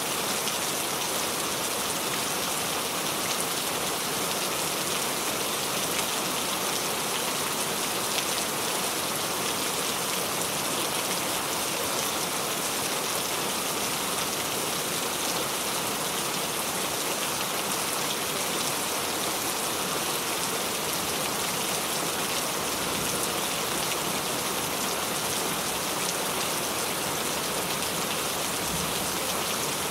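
Steady rain falling on a surface, an even patter of raindrops that does not change.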